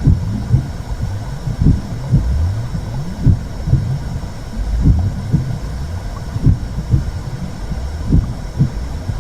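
Simulated womb sound: a deep, continuous whooshing rumble with heartbeat-like pulses about twice a second, over a faint steady hiss.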